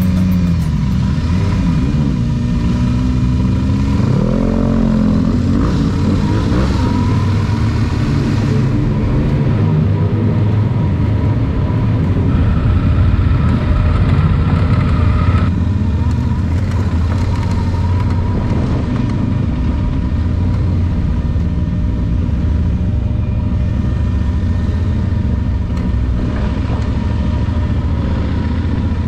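Motorcycle engine running under way with road and wind noise, its pitch rising and falling with the revs a few seconds in.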